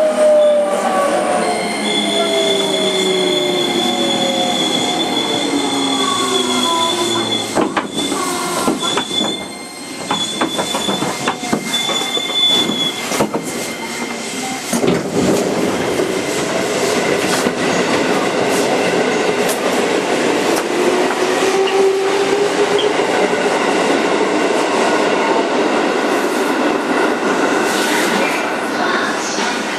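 Onboard running sound of a JR 205 series 5000-subseries electric motor car: the traction motor whine falls in pitch in the first few seconds, then the rumble and noise of wheels on rail carry on, with a whine bending up and back down in the second half.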